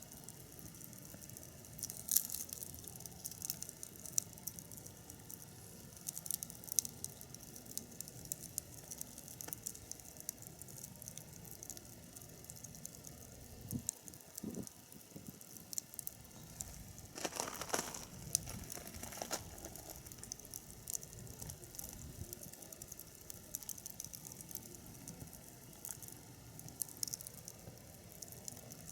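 Wood fire burning in a fire pit, with scattered sharp crackles and pops all through and a louder flurry of crackling about two-thirds of the way in.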